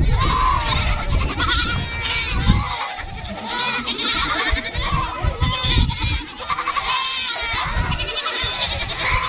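A flock of goats bleating, with many calls overlapping one another throughout.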